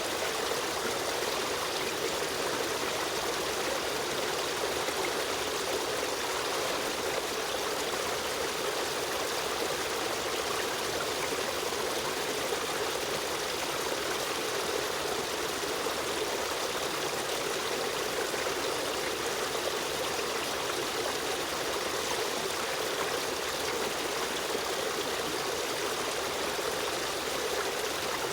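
A river stream running steadily: an even, unbroken rush and trickle of flowing water.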